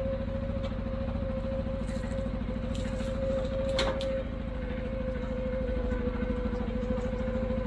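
ATV engine idling steadily with an even, rapid beat and a thin steady whine over it, now holding its idle on a freshly fitted battery. A single sharp click sounds about four seconds in.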